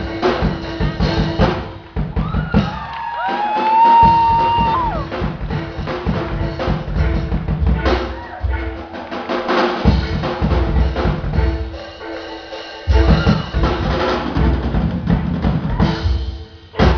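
Drum kit with cymbals played in a steady groove, with bass drum, snare and ringing cymbals. A held melodic note glides and sustains about three seconds in.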